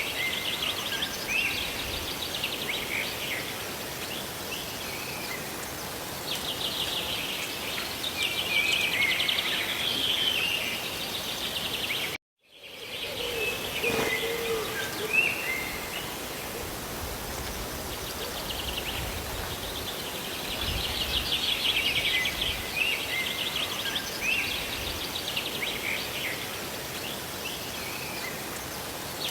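Steady rush of rain and falling water, with songbirds singing trilled phrases over it that come back every several seconds. The sound cuts out to silence for a moment about twelve seconds in, then returns.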